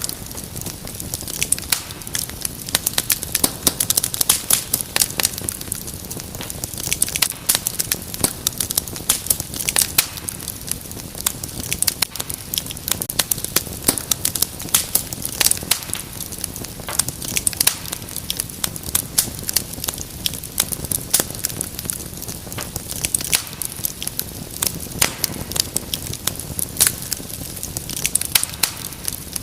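Wood fire crackling steadily in a fireplace: a dense stream of irregular sharp pops and snaps over a soft hiss.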